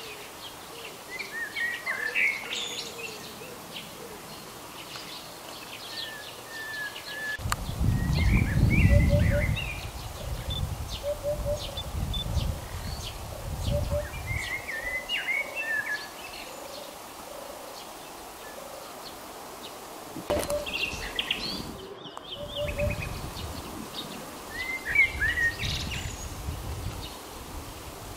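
Several small birds chirping and singing in short phrases, with a soft low call repeated in short groups underneath. Bursts of low rumble come and go, loudest a few seconds in.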